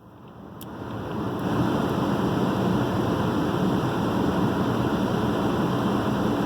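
Smart ForTwo Electric Drive's HVAC blower fan switching on with a click and spinning up over about a second and a half to a steady rush of air.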